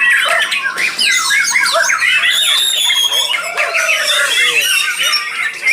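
Several white-rumped shamas singing at once, a dense overlapping mix of rapid whistles, warbles and chirps with no let-up.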